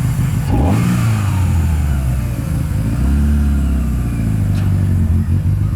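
Car engine running at a low idle and revved twice, about half a second in and again around three seconds in, the pitch rising and falling back each time.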